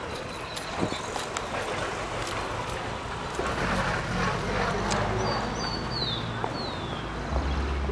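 Street noise with a motor vehicle's engine running close by: a low steady hum that builds from about halfway and gets much stronger near the end. A few faint high chirps sound in the middle.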